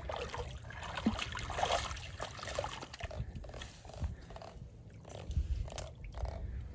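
Faint, irregular wet squelching and scraping of feet moving in slippery mud at the water's edge.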